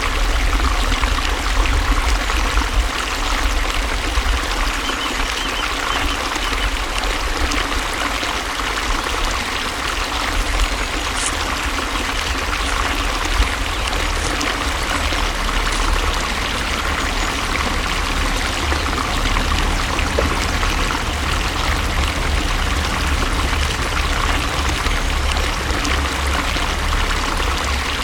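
Flowing water, splashing and trickling steadily with a low rumble underneath.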